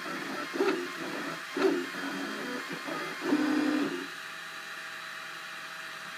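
Cubify 3D printer's stepper motors whining in short pitched bursts as the print head moves, then holding a steadier, higher tone from about four seconds in.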